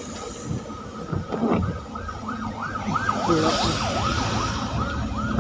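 A vehicle siren sweeping rapidly up and down in pitch, about three sweeps a second, starting about two seconds in, over the low rumble of road traffic.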